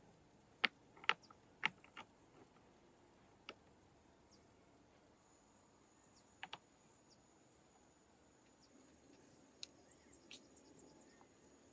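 Scattered light clicks and knocks, several close together in the first two seconds and a few more later, as of hand work with building materials. A faint steady high tone comes in about halfway through.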